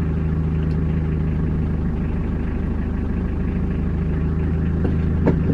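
Truck's engine idling steadily, heard from inside the cab, with a couple of light clicks near the end.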